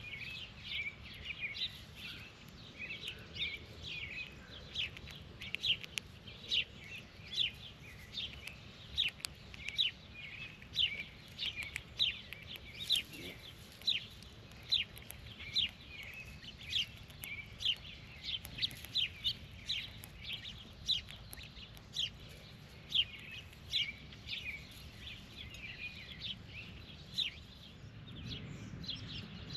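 A bird chirping over and over, short down-slurred chirps at roughly two a second, over a low steady background rumble; the chirping stops shortly before the end.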